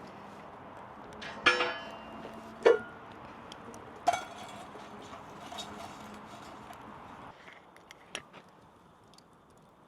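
Three sharp clinks of metal or glass kitchenware knocking together, the first ringing briefly, over a steady hiss that drops away about seven seconds in.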